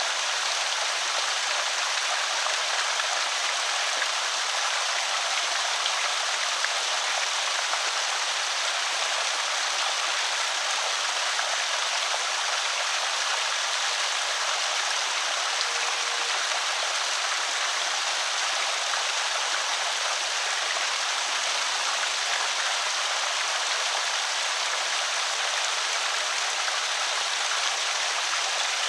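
Water pouring steadily over a small creek spillway, a constant bright splashing rush.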